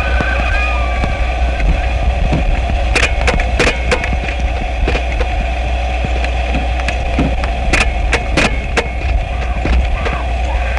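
Harsh experimental noise music: a dense, crackling texture over a steady low hum, with scattered sharp clicks and cracks throughout and a few thin sliding tones near the start.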